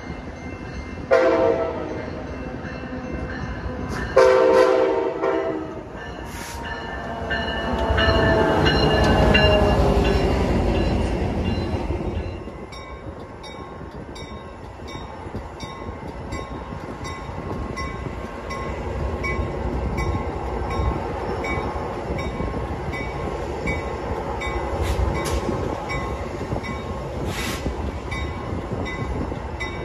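Metra commuter train's horn sounding a short blast, a second blast, then a longer blast that drops in pitch as the train goes by. The steady rumble of the bilevel passenger cars rolling past follows, with a few sharp clicks.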